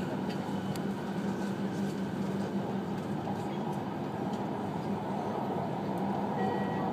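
Cabin noise of an E5 series Shinkansen running at speed: a steady rumble of wheels and air with a constant low hum. Near the end, the tones of an onboard chime begin.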